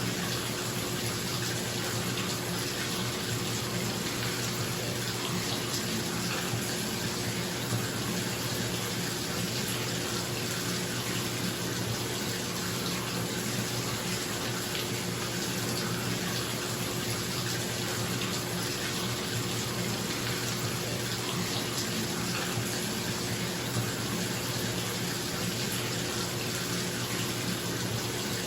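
Bathtub tap running steadily, water pouring into the filling tub, over the steady hum of a bathroom exhaust fan.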